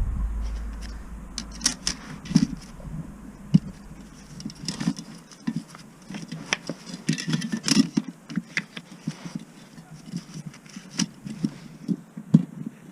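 Scattered light clicks, knocks and small clatters of hand tools and metal parts being handled, with a cluster of clatter about halfway through. A low rumble fades away over the first second or two.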